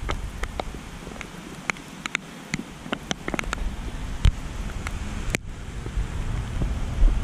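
Rain falling, with many irregular sharp ticks of drops hitting close to the microphone over a steady hiss, and a low rumble of wind buffeting the microphone.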